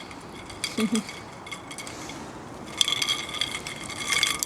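Plastic cable ties being pulled tight, a rapid ratcheting clicking, in a short run about a second in and a longer dense run in the last second and a half.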